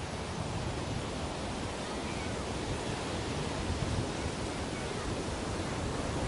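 Ocean waves washing onto a beach: a steady surf rush with a gentle swell in level around the middle and again near the end.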